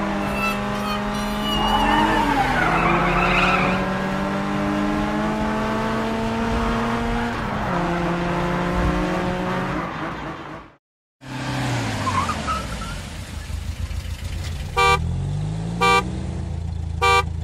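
Cartoon car sound effects: racing car engines running and revving up and down, with a brief tyre squeal a few seconds in. The sound cuts out for a moment about eleven seconds in, then an engine picks up again and a horn toots three times near the end.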